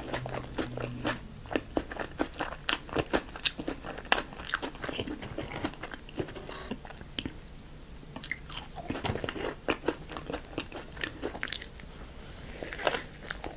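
Close-miked chewing of crunchy food: dense crackling crunches with each chew, easing off briefly about halfway through.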